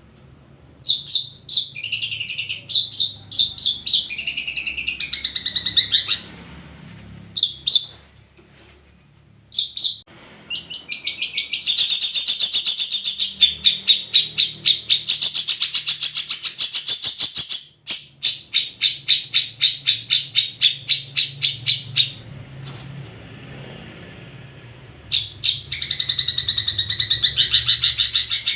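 Long-tailed shrikes (cendet) singing: fast runs of rapid, repeated scratchy notes, several times broken by short pauses.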